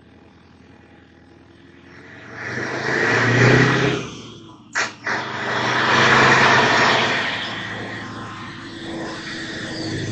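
Road vehicles passing by: two swells of tyre and engine noise that rise and fade, about two seconds in and again about five seconds in, with a single sharp click between them.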